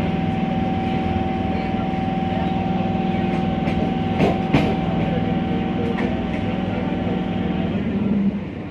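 Passenger train running with a steady hum over a low rumble, and two sharp knocks about four seconds in. Near the end the hum stops and the sound drops off.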